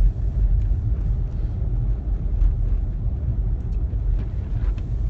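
Car driving, a steady low rumble of engine and road noise with a few faint light ticks.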